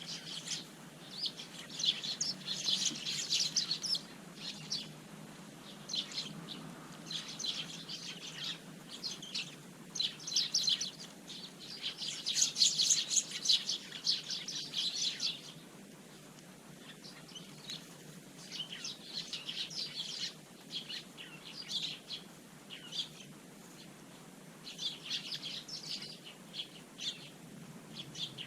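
A flock of Eurasian tree sparrows chirping in bursts of quick, short notes, busiest about halfway through, over a faint steady low hum.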